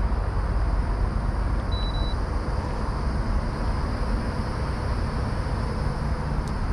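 Steady low rumbling outdoor noise with no speech, with a brief faint high whistle about two seconds in.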